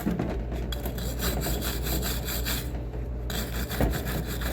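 Hand brush scrubbing back and forth over a metal bench vice, loosening paint softened by chemical paint stripper, in rapid repeated scraping strokes with a short letup about three seconds in.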